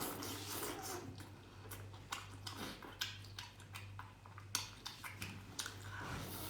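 Chewing candied hawthorn (tanghulu): the hard sugar shell cracks in a run of sharp, irregular crunches between bites.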